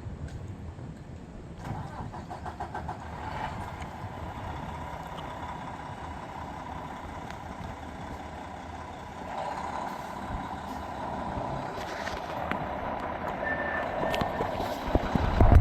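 Fire engine and ambulance engines running as the emergency vehicles move off without sirens, typical of a non-priority response. The engine noise grows louder in two steps, and a low thump comes near the end.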